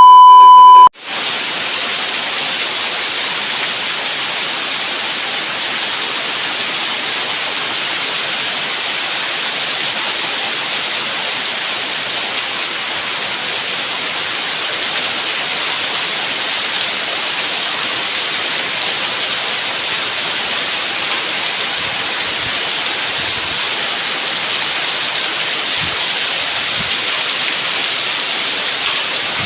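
Heavy rain falling steadily, a dense even hiss with no letup. A loud, steady electronic beep of about one second sounds at the very start.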